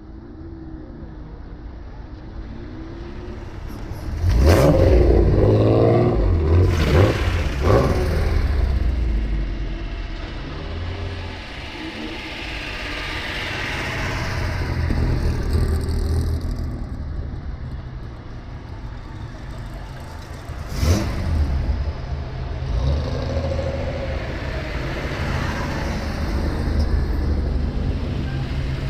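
Classic Japanese cars' loud exhausts revving in hard blips, about four to eight seconds in and again sharply near twenty-one seconds, between stretches of steady running.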